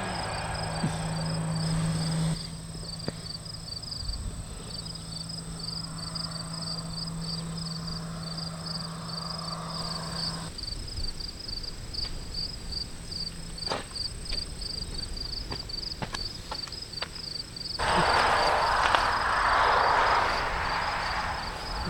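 Insects chirping in a steady rapid pulsing rhythm, a few pulses a second, over a low steady hum. Several sharp clicks fall in the middle, and a louder rushing noise swells up near the end.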